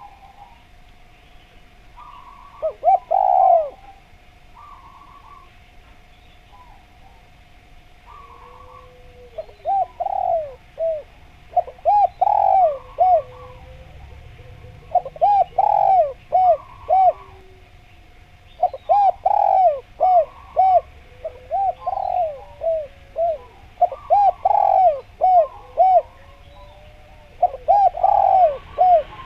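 Spotted doves (derkuku) cooing, in repeated phrases of several rounded notes a few seconds apart. A steady thin tone runs underneath, with faint chirps of small birds higher up.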